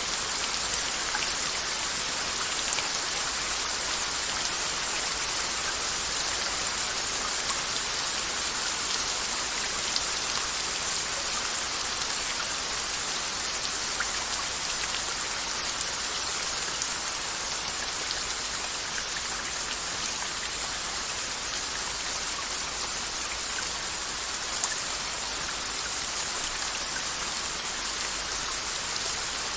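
Steady rain falling, an even hiss with scattered sharper drops tapping close by.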